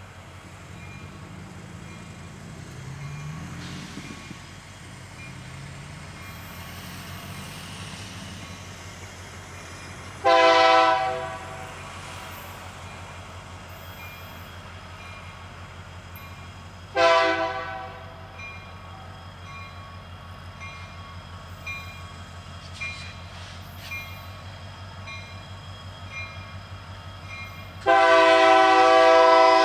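Diesel locomotive air horn sounding three times: a blast of about a second, a shorter blast some seven seconds later, and a long blast near the end. Under it runs the steady low rumble of the locomotive.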